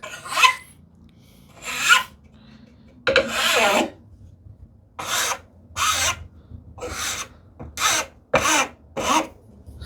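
Hand file scraping across the edge of a wooden tambour slat in about nine short strokes, irregularly spaced with pauses between them. It is taking off the slat's corners so that they won't catch in the door's curved track.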